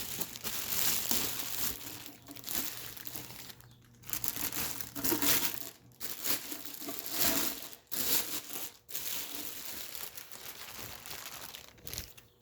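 Plastic packaging crinkling and rustling in uneven bursts with short pauses, as a boxed aftermarket intake tube is unwrapped.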